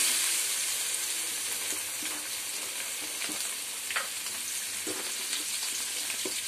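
Boiled baby potatoes frying in hot oil in a kadai, a steady sizzle that is louder while they are being stirred with a wooden spatula and settles lower after the first second or so. A few short pops and clicks sound through it.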